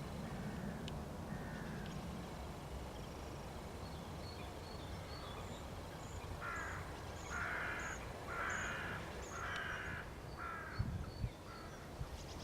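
A crow cawing: a run of about six harsh caws, roughly one a second, starting about halfway through, after a few fainter calls at the start. A brief low rumble comes near the end.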